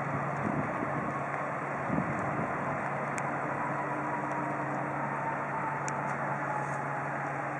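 Jet engines of an arriving Airbus A380 running, a steady noise with a faint engine whine that falls slowly in pitch as the aircraft moves away.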